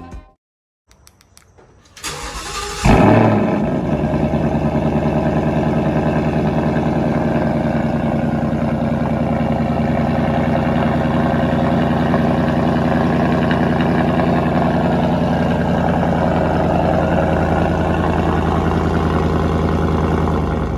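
2018 Ford Mustang GT's 5.0 L V8, through a new Borla ATAK axle-back exhaust with an X-pipe resonator delete, started before warming up: the starter cranks about two seconds in, the engine catches with a loud flare about a second later, then settles into a steady deep idle.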